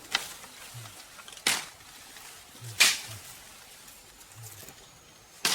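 Sharp strikes repeated at an even pace, about one every second and a half, with softer low thuds between them.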